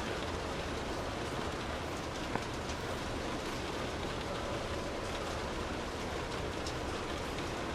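Steady rain falling on a street, with a few sharper drop ticks standing out now and then.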